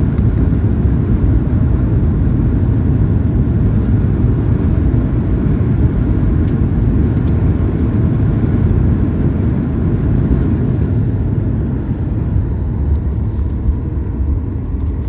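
Steady, loud low rumble inside the cabin of a Boeing 737 MAX 8 from its engines and airframe, easing slightly near the end.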